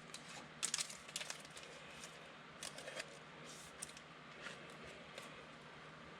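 Trading cards and pack wrappers being handled: faint scattered crinkles and clicks, with a small flurry about half a second in.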